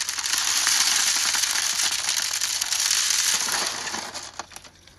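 Many marbles rolling and clattering down a handmade marble run in a dense, crackly rush. It thins out and dies away about four seconds in, leaving a few last clicks.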